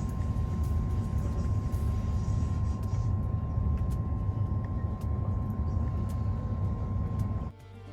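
Steady low rumble of a passenger train running, heard from inside the carriage, with a faint steady high hum and light clicks. It cuts off suddenly near the end, where music starts.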